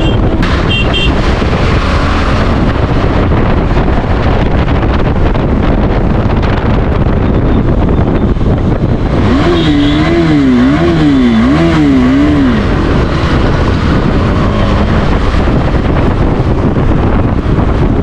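Heavy wind rush on the microphone while riding a KTM 390 Adventure, its single-cylinder engine running underneath. About nine seconds in, a wavering tone rises and falls four times over about three seconds, then stops.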